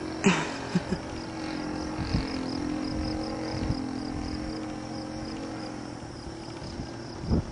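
RC model Citabria's engine droning steadily in flight, with a few wind thumps on the microphone. A faint, fast cricket pulsing sits underneath.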